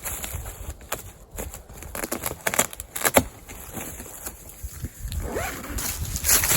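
Rustling and clicking handling noises from a bivy tent being pitched, with a short rising call about five seconds in.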